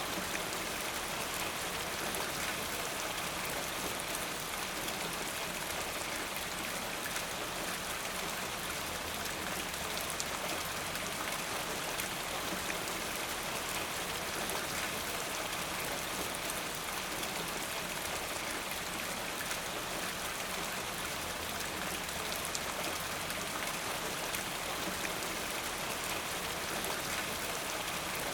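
Steady rain falling: an even, unbroken hiss of many drops, with individual drops faintly ticking through it.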